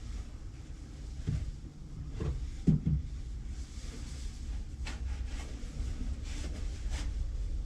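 Cedar fence-picket pieces knocking and clattering as they are handled and fitted together, several knocks with the loudest about three seconds in and a couple of sharper clicks later, over a steady low hum.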